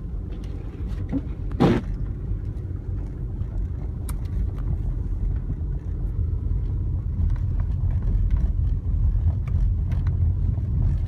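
Car driving on a plowed, snowy street, heard from inside the cabin: a steady low engine and road rumble that grows a little louder over the second half. A short loud sound stands out just under two seconds in.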